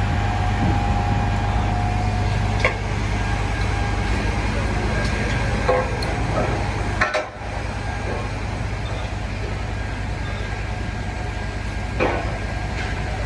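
Large truck engine idling steadily, with street noise and a few short sharp knocks.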